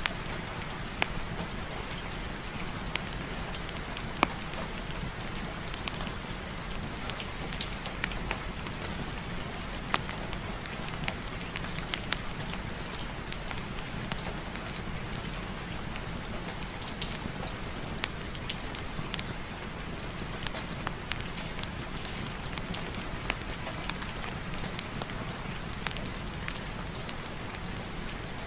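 Steady rain with many short, sharp ticks scattered irregularly through it.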